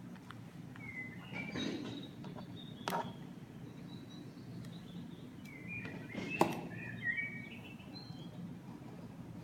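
Small birds chirping in short twittering calls, in two spells, over a steady low background hum, with two sharp clicks, the louder one about six seconds in.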